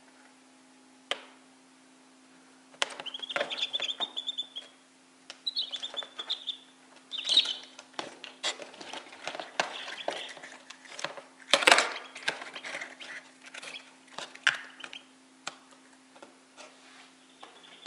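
Newly hatched chicks peeping, with a few drawn-out high peeps a few seconds in. A hand then handles the clear plastic container, making a run of clicks and knocks, loudest about two-thirds of the way through. A steady low hum runs underneath.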